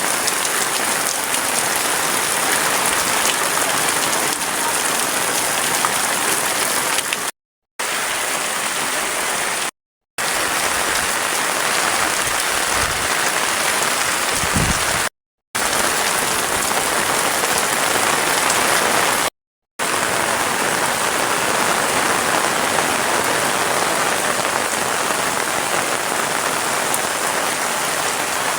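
Heavy rain falling steadily, a dense even hiss of drops, cut off by four brief silent gaps.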